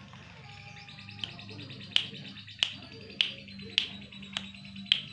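Pet songbird (a burung labe) calling over a soft, continuous chatter. About two seconds in it starts a run of sharp, loud notes, one roughly every 0.6 seconds.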